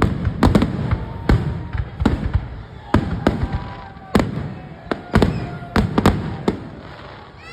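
Aerial fireworks bursting in a rapid, irregular series of more than a dozen sharp booms and cracks, each trailed by a low rumble.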